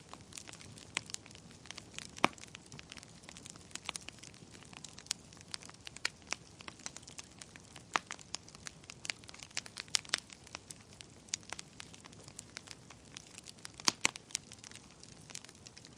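Wood fire burning in a fireplace: irregular crackles and sharp pops over a faint hiss, with a louder pop about two seconds in and another near the end.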